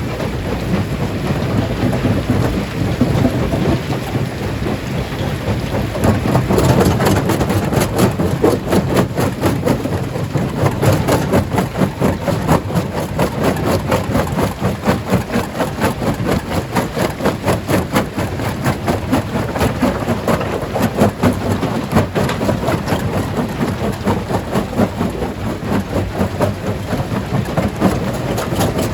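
Stone crusher breaking rocks: a continuous heavy rumble packed with rapid cracking and knocking of stone, growing busier about six seconds in.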